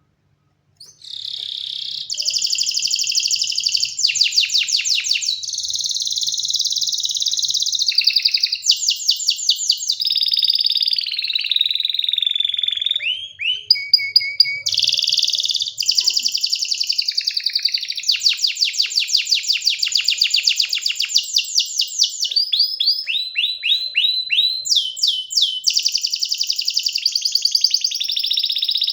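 Domestic canary singing a long, nearly unbroken song of fast trills and rolls, with a few falling whistled notes midway. The song starts about a second in.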